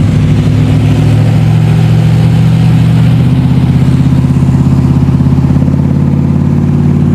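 Vehicle engine running with a loud, steady droning note, its pitch stepping up slightly about three seconds in.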